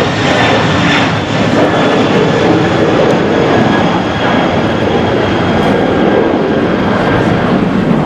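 Jet airliner taking off, its engines at takeoff thrust giving a loud, steady jet noise with a faint high whine.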